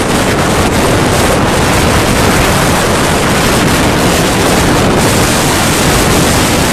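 Strong wind blowing across the microphone together with storm waves surging and breaking, a loud, steady rushing noise.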